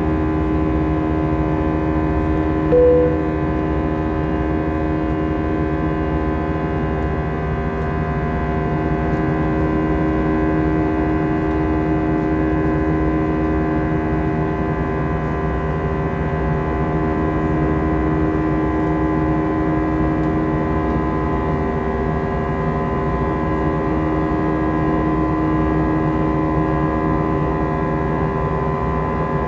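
Steady cabin drone inside an Airbus A320 airliner: engine and air-system noise with a constant hum in it, and a brief single tone about three seconds in.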